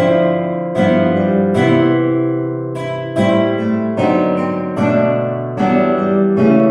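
Instrumental jazz on guitar, playing slow ballad chords: a new chord is struck about every second and left to ring out.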